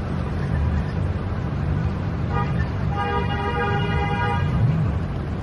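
Street traffic rumble with a vehicle horn honking twice: a short toot a little over two seconds in, then a longer blast lasting about a second and a half.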